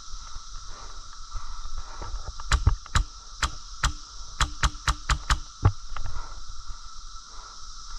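An airsoft gun firing a quick string of about ten single shots over some three seconds, each a sharp crack.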